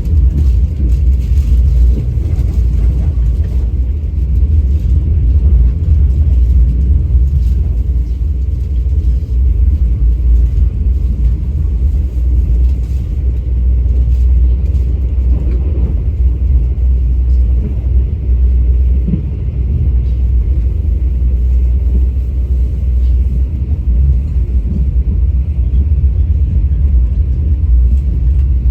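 Train running: a steady, loud low rumble with faint clicks over it.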